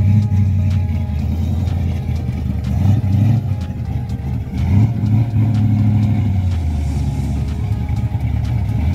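Car engines idling nearby with a deep, steady rumble that swells a little now and then.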